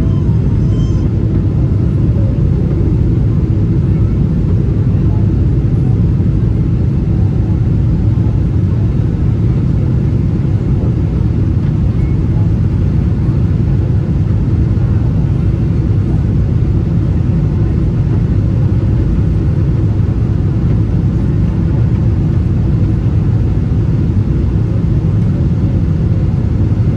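Boeing 777-300ER's GE90 turbofan engines at takeoff power: a loud, steady low rumble that holds unchanged throughout.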